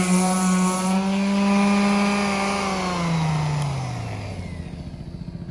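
Bauer 5-inch random orbital palm sander running steadily at high speed, then switched off about two and a half seconds in. Its motor winds down with a falling pitch over the next two seconds.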